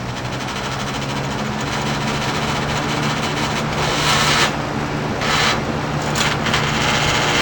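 1984 Galaxy 3713 box fan running on high, a steady motor hum with the rush of air. In the second half, short bursts of rattling noise come and go four times; the owner puts this noise down to a loose grill that needs tightening.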